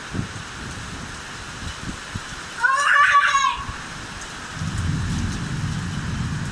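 Heavy rain pouring down steadily. About three seconds in, a child gives a short, high exclamation. Near the end comes a low rumble of thunder.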